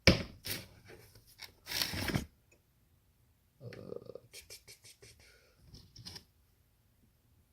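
Small hand tools being handled and sorted: a sharp click at the start, then clatter and rustling of screwdrivers being picked through, a short pause, and more scattered clicks a few seconds in.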